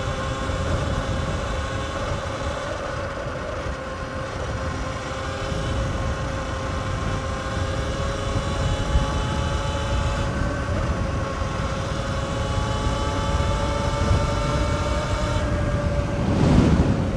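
Sur-Ron X electric dirt bike running at speed: a steady electric-motor whine that drifts slowly in pitch, over wind rushing across the microphone. A louder gust of wind near the end.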